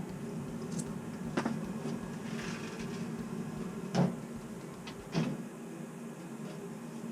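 Navien NCB-240 combi boiler running with a steady low hum, quiet now that its circulator pump has been replaced. Three sharp knocks or clicks of handling come about a second and a half, four and five seconds in, and the deepest part of the hum drops away just after the last one.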